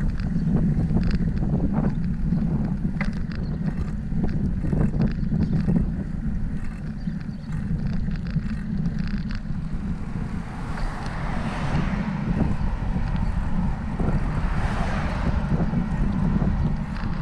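Wind buffeting the microphone of a camera riding on a moving bicycle, a steady low rumble, with small rattling clicks through the first six seconds. Later come two swells of hiss that rise and fade, about ten and fourteen seconds in.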